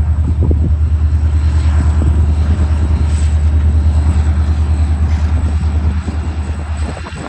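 Diesel locomotive engine running as the train passes: a loud, steady low throb with a fast even pulse.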